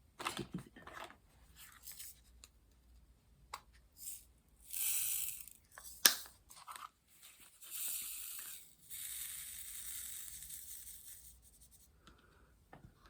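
A thin sheet being torn or peeled in three rasping strokes, the last one longest, with small handling clicks and one sharp snap about six seconds in.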